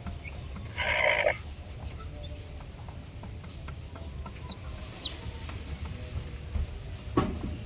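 Aseel chickens calling: one short harsh squawk about a second in, then a run of about seven short high peeps, and a softer squawk near the end.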